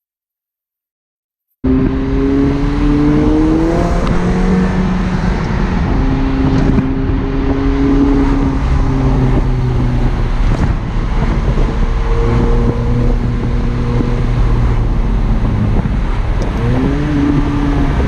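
McLaren 720S twin-turbo V8 running while driving, coming in suddenly about a second and a half in; the engine note climbs and drops back a few times as it accelerates and changes gear, over steady road noise.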